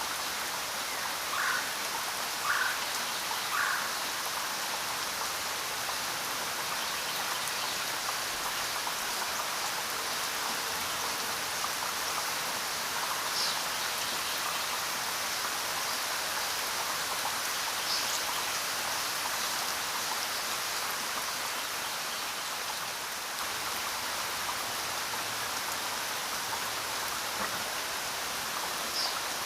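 Steady rain falling. A few short high-pitched blips stand out from it: three about a second apart near the start and a few more scattered later.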